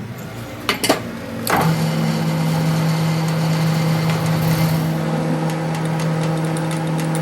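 Two sharp knocks, then about a second and a half in a workshop machine starts up and runs with a steady hum.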